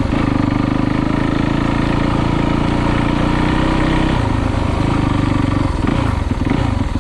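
Dirt bike engine running close under throttle, its pitch creeping up, then dropping sharply about four seconds in and wavering near the end.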